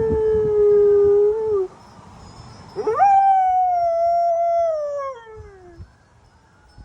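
Dog howling twice in a siren-like wail: a short, fairly level howl, then after a pause a longer one that rises sharply and slowly slides down in pitch.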